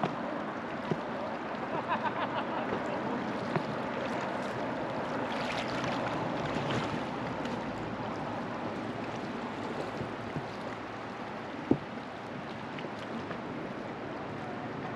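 Truckee River water flowing and lapping around a floating raft, a steady rushing wash with scattered small splashes and clicks. One sharp knock comes about twelve seconds in.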